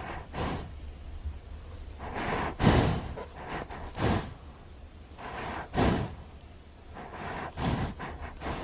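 An animal breathing hard: several loud, noisy breaths or snorts, one to two seconds apart.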